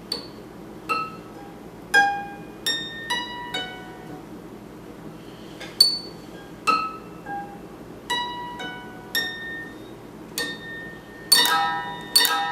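Electric or acoustic guitar played one plucked note at a time, high and ringing, each note fading before the next; near the end several notes are picked in quick succession.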